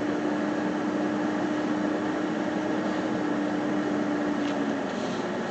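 Steady hum and rush inside a moving vehicle's cabin, engine and air-conditioning fan running, with a steady droning tone that fades out near the end.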